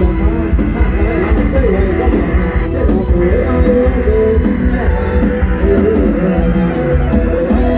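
Loud amplified band music from a rot hae sound truck: a plucked-string lead, typical of an electric phin, plays a busy melody over a heavy bass and drum beat.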